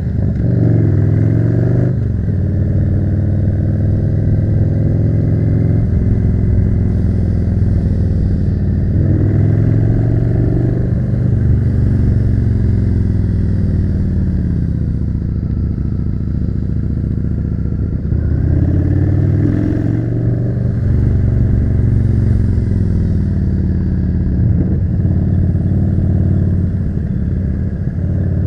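Yamaha V-twin cruiser motorcycle engine under way, its pitch climbing as it accelerates and sinking slowly as it rolls off. This happens three times: a little after the start, about a third of the way in, and around two thirds in.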